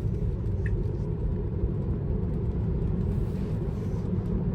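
Steady road noise inside a moving Tesla's cabin: a constant low rumble with a faint hiss above it.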